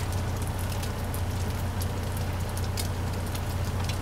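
Chorizo frying in a skillet: a sizzle with scattered small crackles, over a steady low hum.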